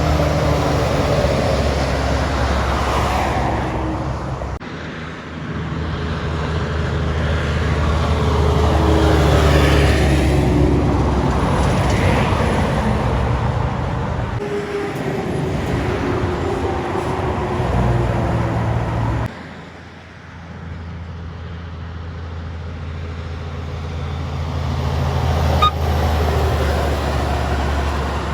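Heavy trucks passing on a highway, their diesel engines running low and steady under tyre and road noise. The sound changes abruptly twice, about five and nineteen seconds in, as one pass gives way to another.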